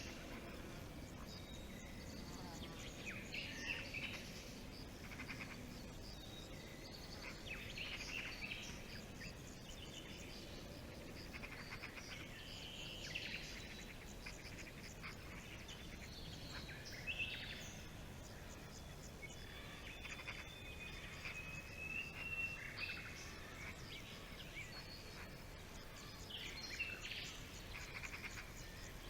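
Forest birdsong: several birds calling and trilling on and off, with a faint steady background hiss.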